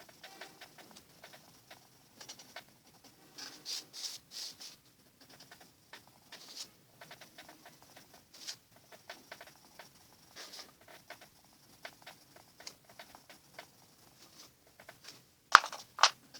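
Faber-Castell watercolour pencil scratching on paper in short, irregular shading strokes, with two sharper clicks near the end.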